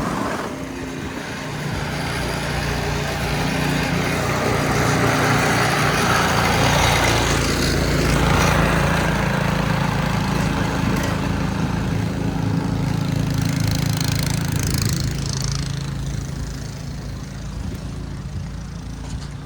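An engine running steadily with a hiss over it, growing louder toward the middle and fading near the end.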